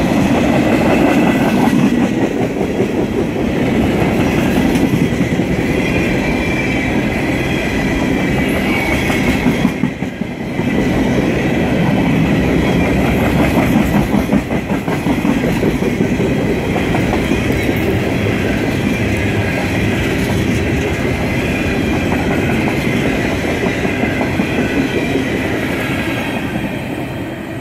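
A CSX freight train of refrigerated boxcars rolling past close by, its steel wheels running continuously on the rails. The sound fades a little near the end.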